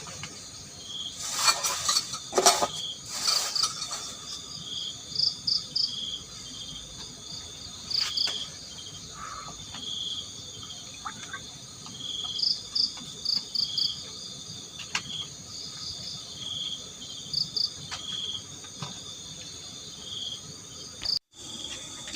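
Night insects and crickets calling steadily, with repeated short chirps and quick trills over a constant high buzz. There are a few loud knocks and clatters of handled utensils or cookware between about one and a half and three and a half seconds in, and a few faint clicks later on.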